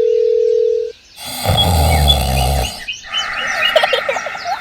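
A steady beep for about a second, then a loud roar with a deep rumble lasting about a second and a half, then birds chirping.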